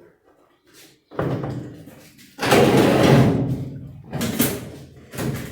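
Electrolux LTE 12 top-loading washing machine cabinet being tipped over to reach its underside. There is a knock about a second in, then a louder bang that rattles on for over a second, and two more knocks near the end.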